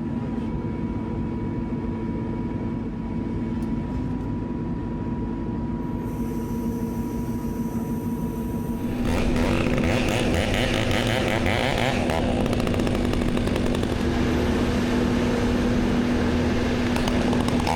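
Heavy machinery engine running steadily; about halfway through, a chainsaw starts up and runs loud over it.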